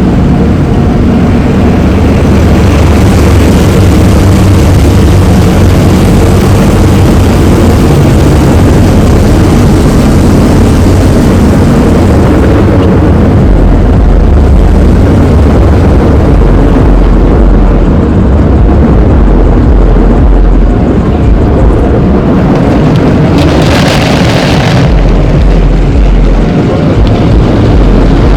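Automatic tunnel car wash machinery heard from inside the car: a loud, steady, low rumbling drone, with a short burst of hiss near the end.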